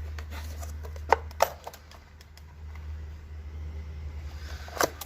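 A few sharp clicks and taps, two close together about a second in and one near the end, over a low steady rumble.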